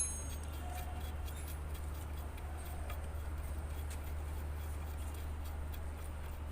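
Faint, scattered clicks of a ring spanner working on engine bolts over a steady low hum.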